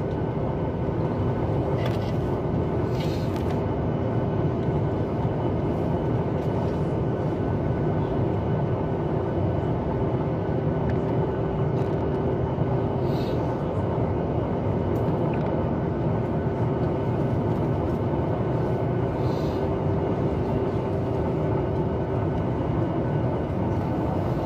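Steady cabin rumble of a Boeing 737 MAX 8 taxiing after landing, with a constant hum that stops near the end and a few faint clicks.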